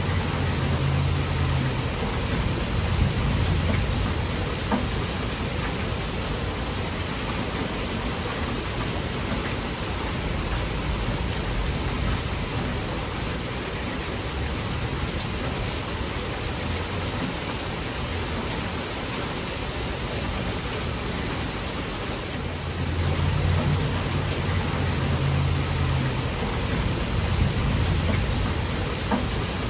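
Heavy, torrential rain falling steadily, with low rumbles of thunder swelling near the start and again about 23 seconds in.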